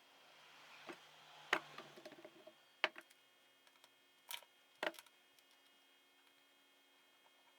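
Scattered sharp clicks and knocks of metal tools and engine parts being handled on a workbench, about five in all, with a faint hiss during the first couple of seconds.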